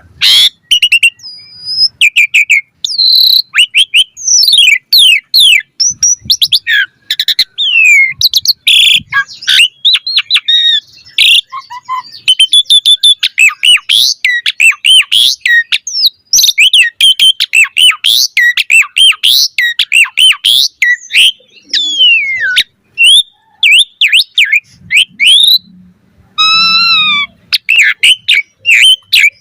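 Asian pied starling (jalak suren) singing a fast, varied song of whistles, chirps and notes sliding up and down, in quick phrases with short breaks. Near the end comes a longer, wavering call falling in pitch.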